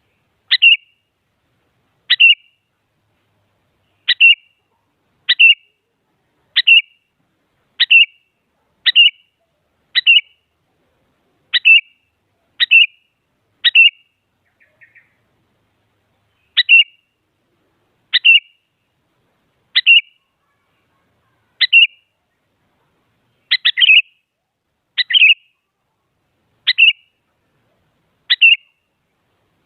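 Sooty-headed bulbul (kutilang) giving short, sharp calls, one every second or two, about twenty in all. Near the middle the bird pauses for a couple of seconds, with only one faint chirp. A quick double call comes about two-thirds of the way through.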